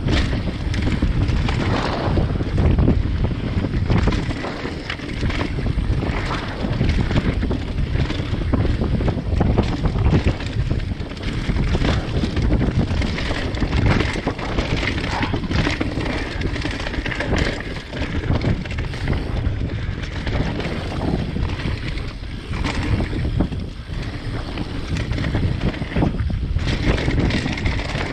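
Mountain bike ridden down a dirt singletrack: wind rushing over the microphone, with tyre noise and frequent knocks and rattles from the bike over bumps.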